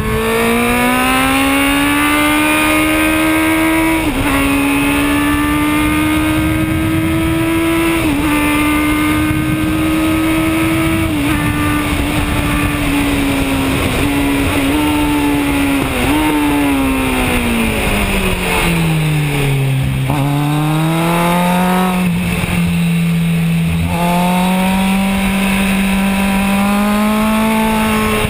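Kawasaki Z1000 inline-four engine revving hard, heard onboard with wind rush. The engine note holds high with short dips every few seconds, drops steeply for a couple of seconds about two-thirds of the way through as the bike slows, then climbs again under acceleration.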